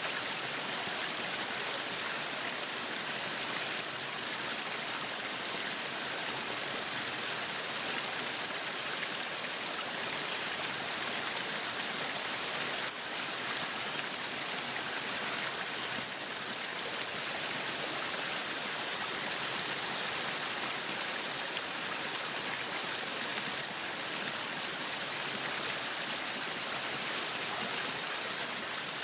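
Meat sizzling on a yakiniku grill: a steady, even hiss with fine crackling.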